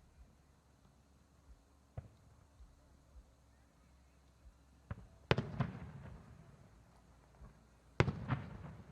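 Aerial firework shells bursting. A faint pop comes about two seconds in, then two loud bangs about three seconds apart. Each bang is followed quickly by a second crack and a fading rumble.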